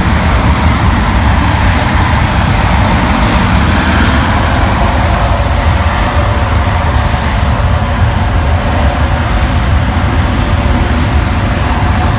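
RS-25 liquid-hydrogen rocket engine firing on its test stand: a loud, steady, unbroken rush of noise with a deep rumble underneath.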